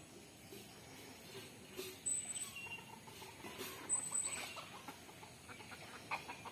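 Domestic chickens calling quietly, with a few short high-pitched squeaks about two and four seconds in.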